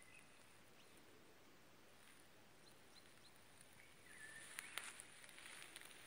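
Very quiet outdoor ambience with faint, distant bird calls. A few short clicks and a little rustling come about four and a half seconds in.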